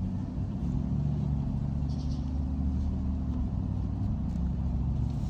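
Steady low motor hum with a few held low tones, like an engine running nearby.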